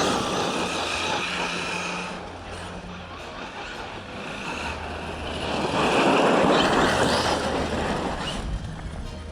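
Arrma Kraton 6S RC truck's brushless motor whining over tyre and dirt noise, swelling twice as it accelerates. The second, louder pass comes about six seconds in, with the whine rising in pitch.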